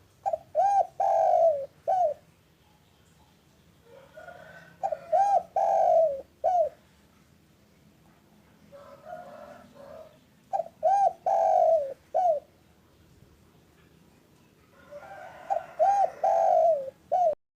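Spotted dove (derkuku) cooing its song four times, each phrase a few soft lead-in notes followed by loud coos with one longer drawn-out note. The last phrase cuts off abruptly.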